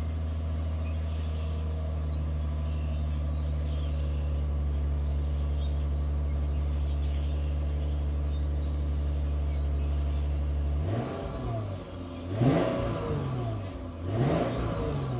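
2015 Lexus RC 350's 3.5-litre V6 on its stock muffled exhaust, idling steadily after a cold start. About eleven seconds in it is blipped twice, about two seconds apart, each rev rising and falling back to idle.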